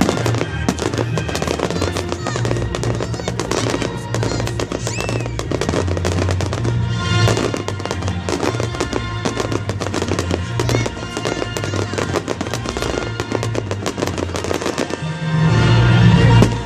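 Fireworks going off in rapid, dense crackles and bangs, over background music.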